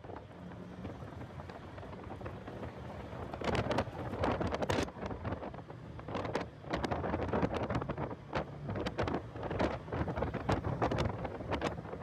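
Heavy wind buffeting the microphone in irregular gusts, over the low rumble of a car driving at speed on a track.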